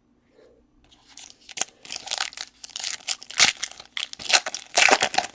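Plastic packaging crinkling and tearing in quick irregular rustles, starting about a second in, as trading-card packs and cards are handled.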